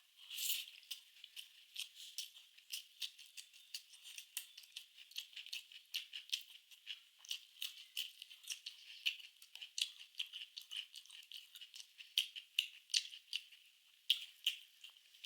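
Close-miked chewing: a quick, irregular run of mouth clicks and smacks, several a second.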